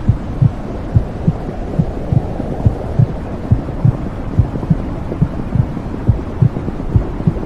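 Womb sound: a steady low whooshing rumble with a heartbeat beating through it, low thumps in lub-dub pairs a little under once a second.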